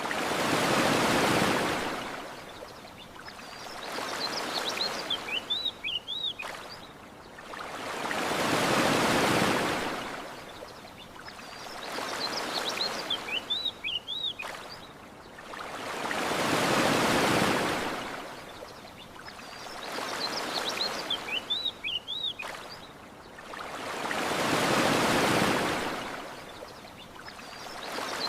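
Ocean waves washing onto a shore. Each swell rises and falls, one roughly every four seconds, with bigger and smaller waves taking turns. Short, high bird chirps come in small bursts between the bigger waves.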